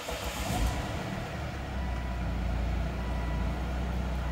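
Volvo D5 five-cylinder turbodiesel engine just started, running unevenly at first and settling into a steady idle about a second and a half in. It is being run briefly after an oil change so that the new oil filter fills with oil before the level is checked.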